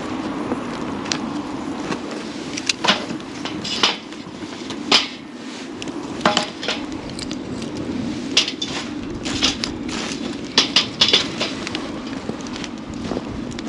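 Wood campfire crackling: about a dozen sharp pops and snaps, spaced irregularly, over a steady low rushing hiss.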